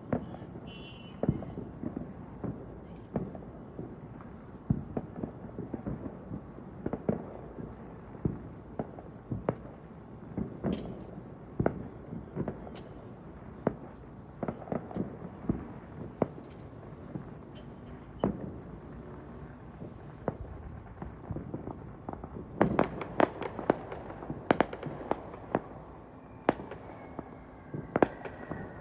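Fireworks and firecrackers going off: sharp bangs and pops at irregular intervals, with a quick run of many bangs about three quarters of the way through.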